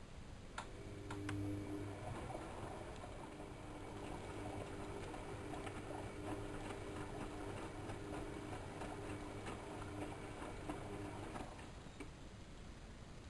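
AEG Electrolux Lavamat L6461 washing machine turning its drum during a 95 °C boil wash: two sharp clicks, then the motor hums steadily with faint ticks and swishes of the wet laundry, and it stops suddenly near the end.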